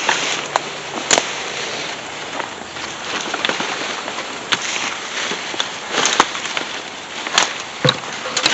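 Footsteps crunching through dry leaves and undergrowth, with several sharp snaps of twigs and brush along the way.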